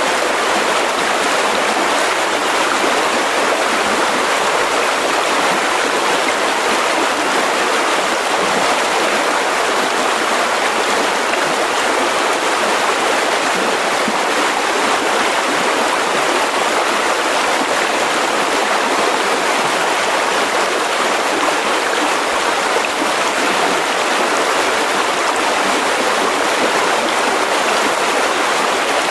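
Mountain river rushing over rocks: a steady, even water noise with no breaks.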